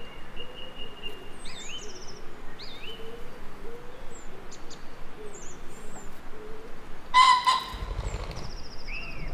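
Nature ambience of several birds singing and calling: a pulsed high trill at first, then short chirps and gliding whistles, over a faint low repeated call. About seven seconds in there is one loud, harsh call, and low thunder starts to rumble near the end.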